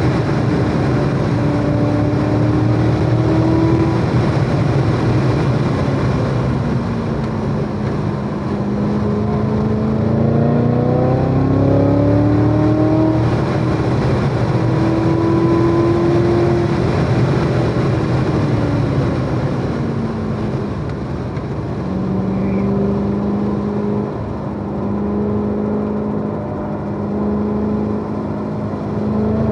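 Chevrolet Corvette C7 Z06's supercharged 6.2-litre V8 driven hard on a race track, its pitch falling and rising several times as it brakes and accelerates through corners, then holding steadier near the end.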